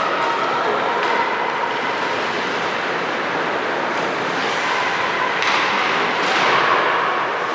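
Ice hockey game in an arena: steady rink noise from skates and the crowd, with two sharp knocks of stick or puck past the halfway point.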